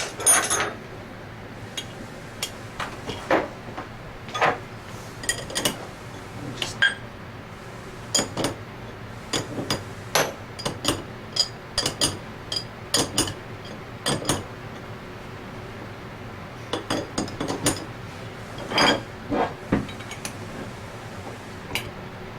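Irregular light metal knocks and clinks of hand tools and steel installation fixtures being handled and tapped while a shaft seal is fitted: a dozen or more separate strikes with uneven gaps.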